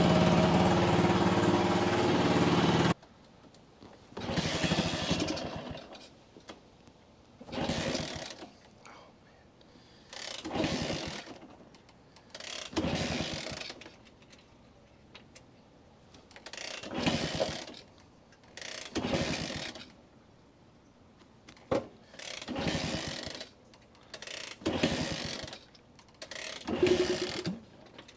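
1964 Honda C200 engine running for about three seconds, then cut off abruptly. After that come about a dozen separate starting attempts, one every two seconds or so, each a short burst of the engine turning over without catching. The engine died after a ride and won't restart, which the owner puts down to a clogged pilot jet or dirt in the fuel line.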